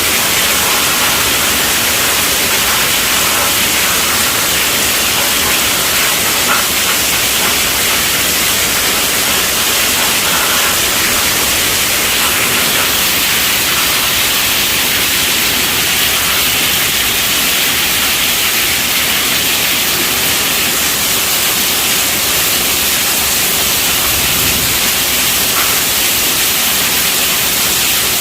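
Steady rainfall: a dense, even hiss that does not change.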